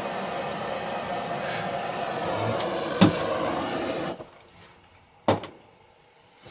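Gas blowtorch flame hissing steadily while heating a copper oil pipe joint, with a click partway through. The flame cuts off suddenly about four seconds in, and a single sharp knock follows about a second later.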